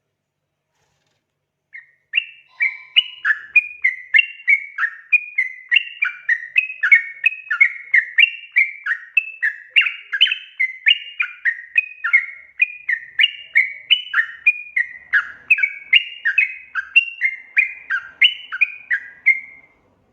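Yellow-vented bulbul (trucukan) calling: a long unbroken run of quick, repeated chattering notes, about two to three a second, starting about two seconds in and stopping just before the end.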